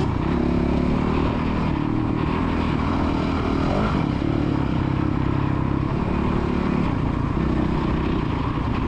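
A child's motocross dirt bike engine running on the track, its revs rising and falling steadily.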